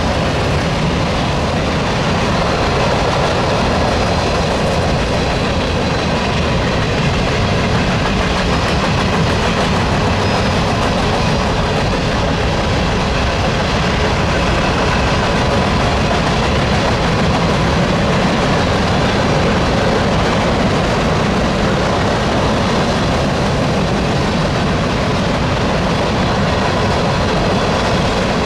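A train's cars rolling past on the track: a loud, steady rumble and rattle of steel wheels on rail that keeps up without a break.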